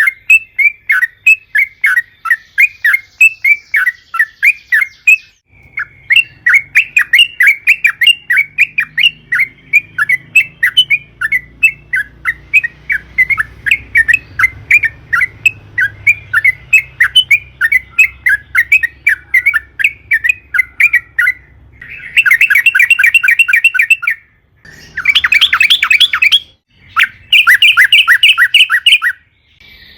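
Yellow-vented bulbul calling in a long, fast chatter of repeated notes, several a second. Near the end it breaks into three denser, louder runs of chatter with short gaps between them.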